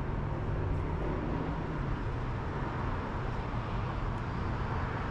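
Steady outdoor background noise with a low, even hum, like distant traffic or a running machine; the lowest hum eases off about two seconds in.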